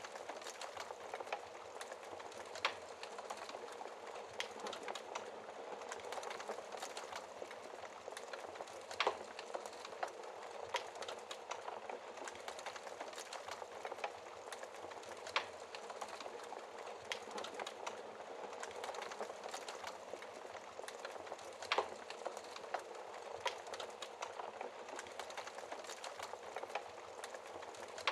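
Wood fire crackling in a fireplace: a steady soft hiss of burning with irregular small pops and a few sharper snaps.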